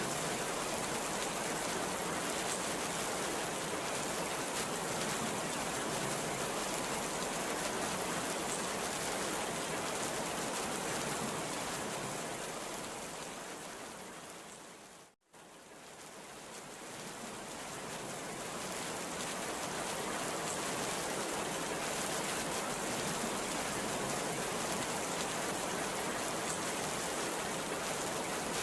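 Heavy rain falling steadily, a dense even hiss with no thunderclaps. About halfway through it fades down to a brief moment of silence and swells back up again, the join of a looped recording.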